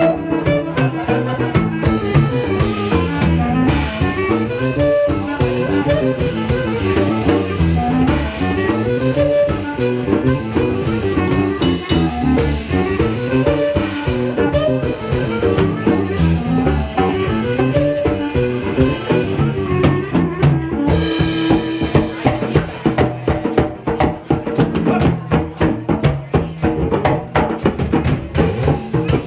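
A small band playing instrumental music, with a drum kit keeping a busy beat under a winding melody line.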